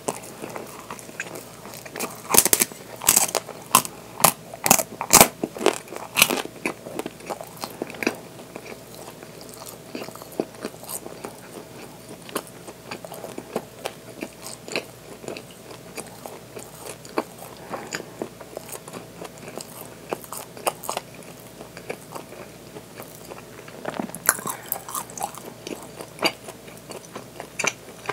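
Close-up mouth sounds of someone biting and chewing flaky pastry: loud, crisp crunches packed together a couple of seconds in, softer chewing through the middle, and another short run of crunching near the end.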